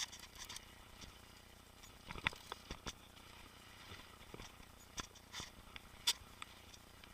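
Mountain bike clattering over a rough trail: irregular sharp clicks and knocks, with a cluster about two seconds in and hard clicks around five and six seconds in.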